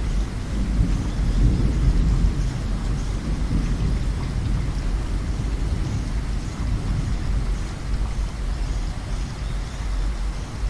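Steady heavy rain with a low, rolling thunder rumble that builds in the first couple of seconds and then slowly fades under the rain.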